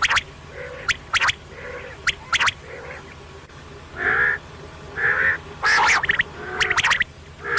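Quail calling over and over: short, sharp notes, some in quick doubles and triples, with softer lower notes in between.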